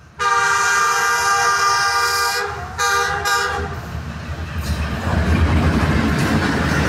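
Diesel locomotive horn sounding a long blast of about two seconds, then a shorter second blast. The rumble and rush of the locomotive and its passenger coaches passing close by follow, growing louder about five seconds in.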